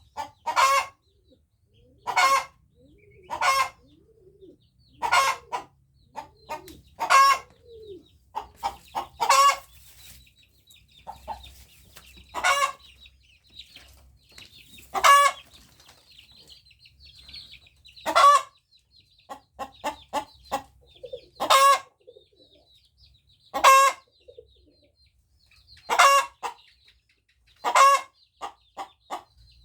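Hen giving loud, short calls over and over, about one every two seconds, with softer clucks between them.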